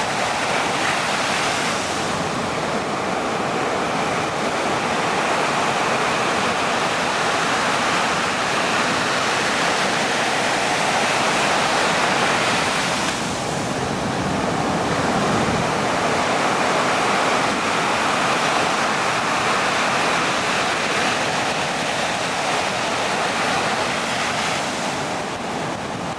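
Steady rushing noise of wind on the camcorder microphone, with a short dip about thirteen seconds in.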